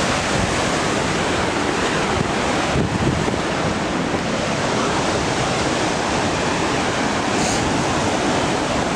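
Waterfall rushing, a loud, steady roar of falling water with no let-up.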